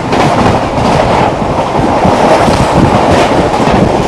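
Express train running at about 130 km/h: loud, steady rushing of wind and wheels on the rails, with a second train crossing the other way at the same speed.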